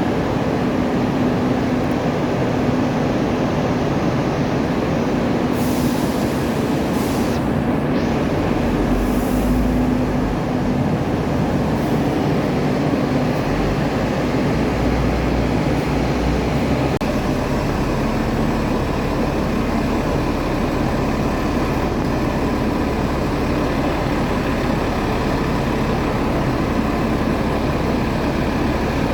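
Steady drone of a boat's engine under way, a constant low hum under a dense rushing noise, with brief hissing flares a few seconds in.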